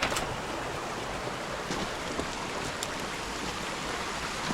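Steady rush of a fast-flowing bush stream, with a few faint clicks over it.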